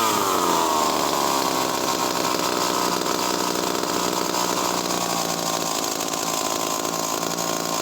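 Skilsaw 1644 two-stroke chainsaw, a nearly 70cc engine, running loudly after a blip of the throttle. Its pitch falls over the first second and a half, then holds steady.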